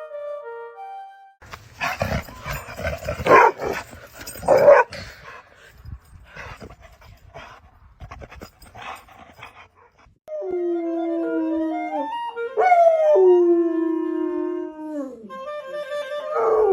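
Dog sounds: a noisy stretch with two loud outbursts, then from about ten seconds in a dog howling in long drawn-out notes that slide down at the end.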